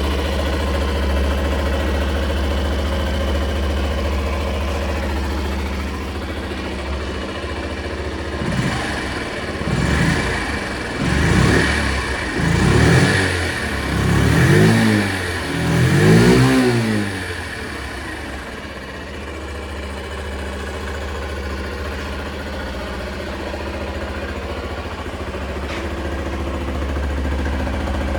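Honda Little Cub's 49 cc four-stroke single-cylinder engine idling, then blipped about six times in quick succession, each rev rising and falling, with the later revs reaching higher. It then settles back to a steady idle.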